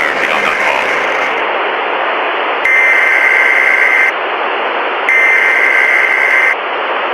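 Steady static hiss, with a long electronic beep sounding twice, each about a second and a half long and a second apart.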